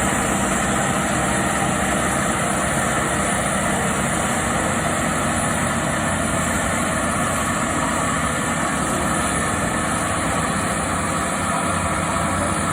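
Mount Washington Cog Railway train's engine running steadily, a constant mechanical drone with a low hum.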